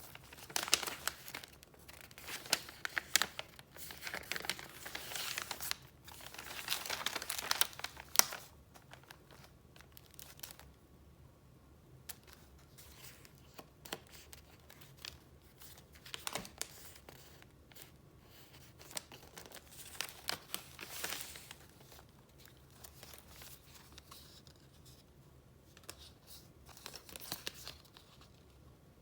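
Paper being handled: busy crinkling and rustling for about the first eight seconds, then sparser, quieter rustles and light taps.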